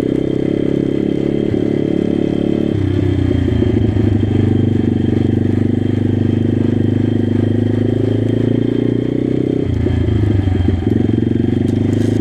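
Pit bike engine running under way, its note shifting sharply about three seconds in and again around ten seconds.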